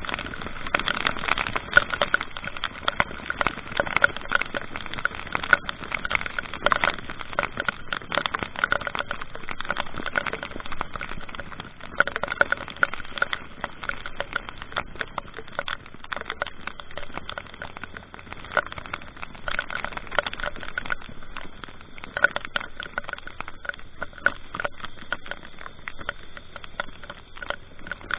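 Rain and wind crackling on the microphone of a moving vehicle, a dense patter of fine clicks over a faint low road rumble.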